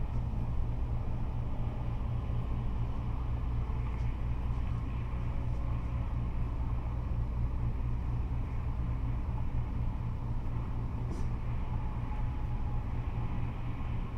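Freeway traffic of cars and trucks: a steady, continuous rumble of passing vehicles and tyre noise.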